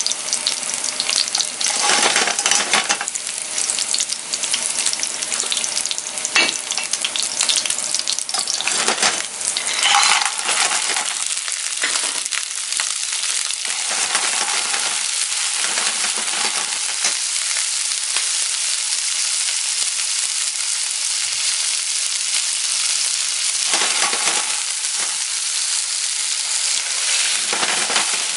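Clams and garlic sizzling in olive oil in a frying pan as they are stirred, a steady frying hiss with a few sharp clinks and scrapes of the utensil against the pan.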